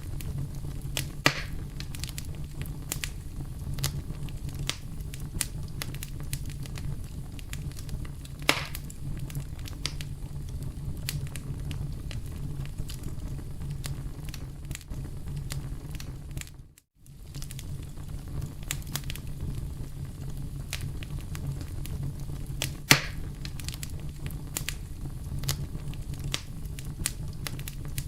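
Wood campfire burning with a steady low rumble and constant crackling, broken by three sharp pops from the burning wood. The sound dips out briefly a little past halfway, then returns.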